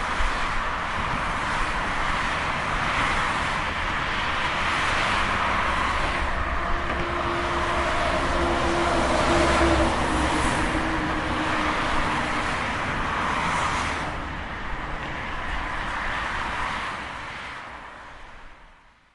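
Heavy container trucks running past on a highway: continuous engine and tyre noise that swells as each vehicle passes, loudest around the middle, then fades out near the end.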